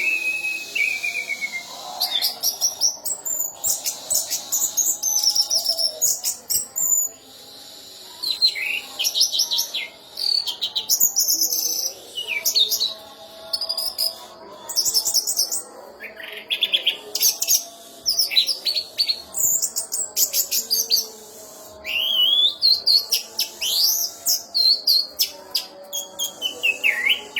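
Orange-headed thrush singing a long, varied song of rapid stuttering note series and rising and falling whistles, with short pauses between phrases. The song is packed with learned mimicry of other birds' calls, the prized 'isian' of Indonesian songbird keepers.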